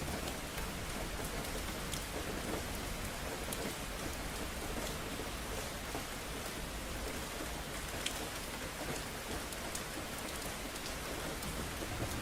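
Steady rain falling on hard surfaces, an even wash of noise with scattered sharp ticks of single drops.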